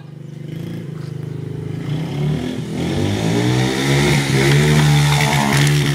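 Yamaha TT-R50E dirt bike's small four-stroke single-cylinder engine revving as the bike accelerates. It gets louder from about two seconds in, with the revs rising and falling, then drops back near the end.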